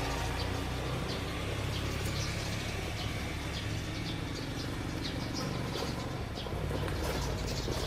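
A steady low machine hum, like an engine or motor running, with light clicks and taps scattered through it.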